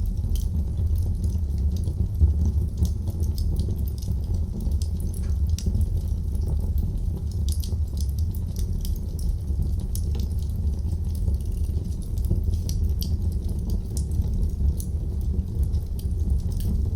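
Wood fire burning in a fireplace: frequent small sharp crackles and pops, irregular, over a steady low rumble of the flames.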